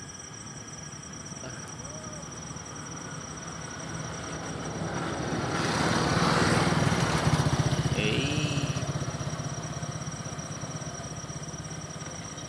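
A motor vehicle passing by: its engine grows louder, peaks about six to eight seconds in, then fades away. A steady high insect trill runs underneath.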